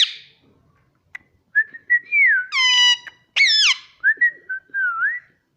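Indian ringneck parrot whistling: a string of clear whistled notes that wobble and glide up and down around one pitch. About two and a half and three and a half seconds in, they are broken by two loud, shrill calls that drop in pitch.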